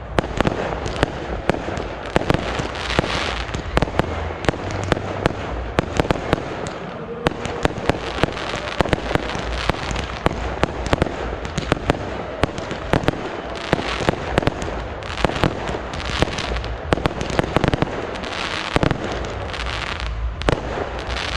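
Fireworks display going off continuously: many sharp bangs and crackling bursts in quick, irregular succession over a dense rumbling haze of shells.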